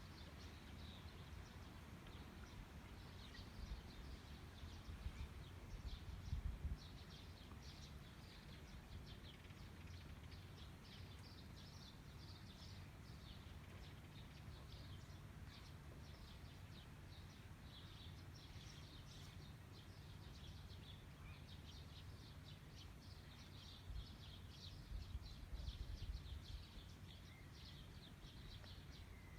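Faint, dense chirping of small birds outdoors, with a low rumble twice, about five seconds in and again near the end.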